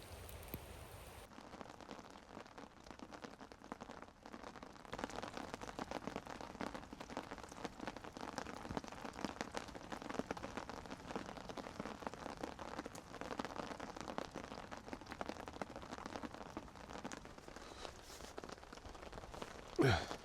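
Steady rain falling, a dense patter of drops that gets heavier about five seconds in, with one brief sharp sound near the end.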